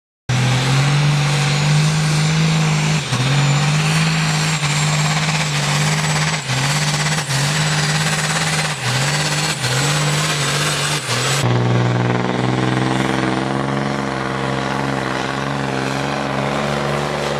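Heavy truck's diesel engine running hard at high revs, its pitch dipping briefly about once a second, then running at steady revs from about eleven seconds in.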